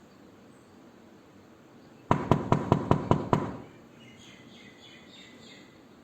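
Knocking on a door: a quick run of seven sharp raps, about five a second, with a short ring after each.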